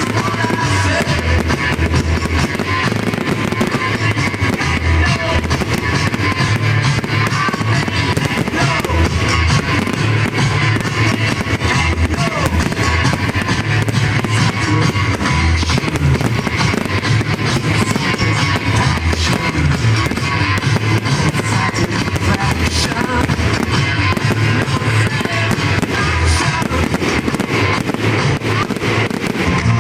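Fireworks going off continuously, a dense crackle of many small bangs with repeated low booms, over loud rock music with guitar played for the display.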